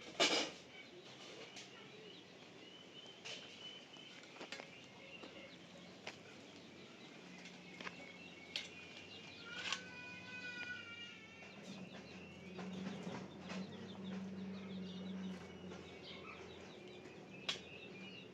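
Scattered knocks and clicks, the loudest right at the start, with a short bird call about ten seconds in and a faint low hum a little later.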